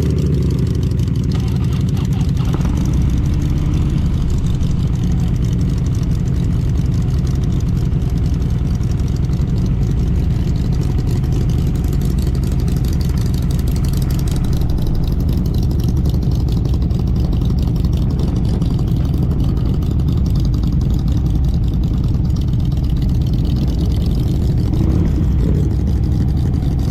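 Motorcycle engine running steadily on the move, with continuous road and wind noise.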